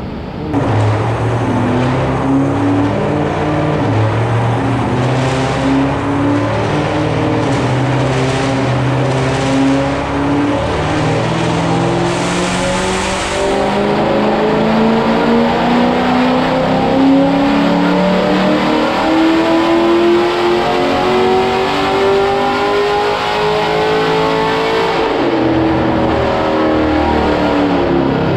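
Pontiac G8's cammed, supercharged LS V8 making a wide-open-throttle pull on a chassis dyno, its note climbing steadily in pitch for over twenty seconds, then falling off near the end as the throttle closes.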